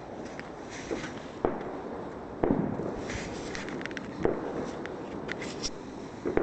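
Wood fire in an incinerator tin burning strongly, crackling steadily with irregular sharp pops, about five loud ones a second or more apart.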